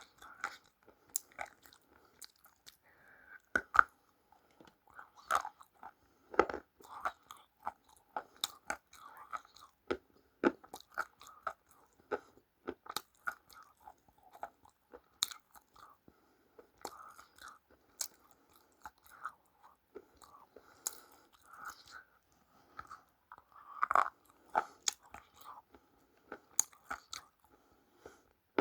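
Close-miked chewing and biting of crunchy food: irregular sharp crackling crunches, with a few louder bites among them.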